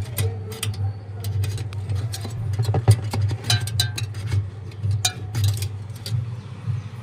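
Irregular clicks and knocks of hand work on a refrigerator's blocked drain, over a steady low hum.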